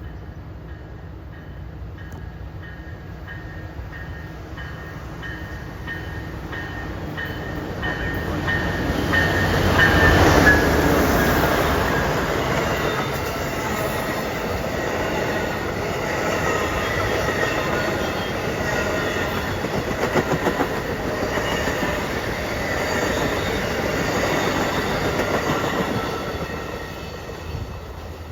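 Amtrak passenger train passing, its wheels clattering over the rails. The sound builds to its loudest about ten seconds in, runs on steadily as the cars roll by, and falls away near the end.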